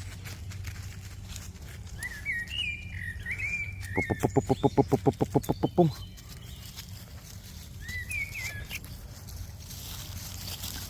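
Birds chirping in short rising and falling phrases, twice. Between the two phrases comes a loud, rapid run of about eight low pulses a second for two seconds, dropping in pitch at the end, over a steady low rumble.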